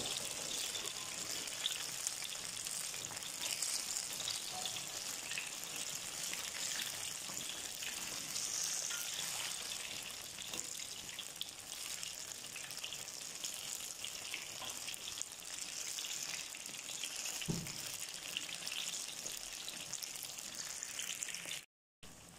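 Battered banana fritters deep-frying in hot oil in a wok: a steady sizzle with fine crackling. The sound cuts out for a moment near the end.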